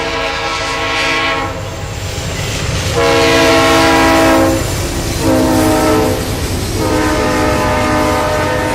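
Locomotive air horn sounding a chord in repeated blasts: one ends about a second and a half in, then comes a long blast, a shorter one, and a final long one held to the end, the long-long-short-long pattern of a grade-crossing signal. Underneath, the train runs by with a steady low rumble.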